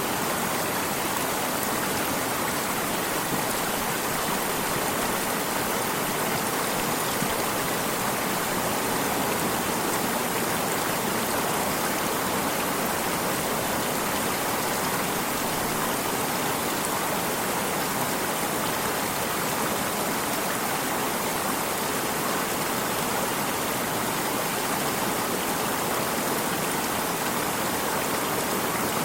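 A stream of water running, a steady rushing and splashing that doesn't change.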